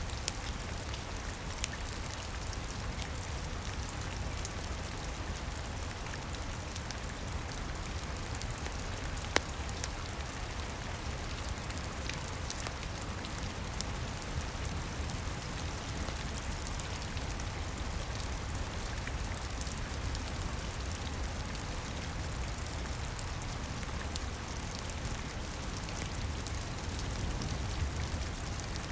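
Steady rain on a roof with a low rumble underneath, and scattered sharp pops and crackles from a wood fire, one louder pop about nine seconds in.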